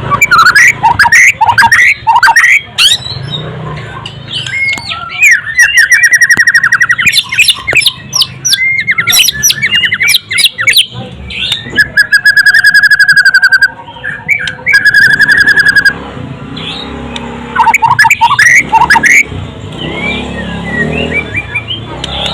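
White-rumped shama singing a loud, varied song of sweeping whistles and fast, even trills, with long held trills about halfway through, phrases broken by short pauses.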